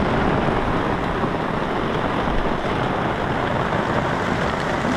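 Heavy rain falling: a steady, dense rushing noise with no breaks.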